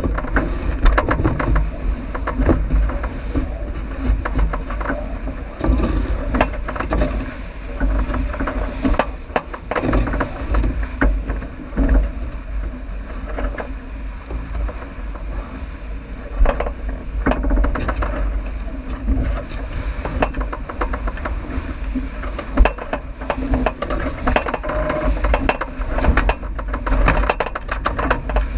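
J80 sailboat sailing downwind: a steady low rumble of wind and rushing water, with frequent short knocks and clicks from the boat.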